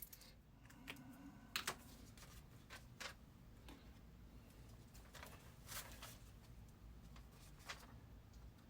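Near silence: a low room hum with a handful of faint, scattered clicks and taps, the loudest about a second and a half in.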